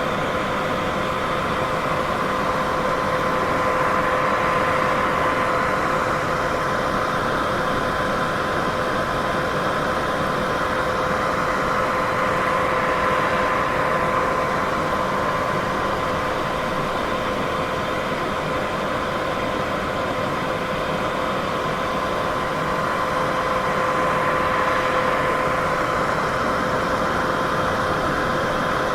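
Steady white noise hiss with two faint steady tones, one an octave above the other, and a slow gentle swell in level, around five seconds in and again near the end.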